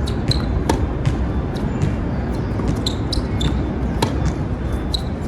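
Tennis balls being struck by rackets and bouncing on a hard court: an irregular series of sharp pops, several a second, some louder and some fainter. Strong wind buffets the microphone with a steady low rumble underneath.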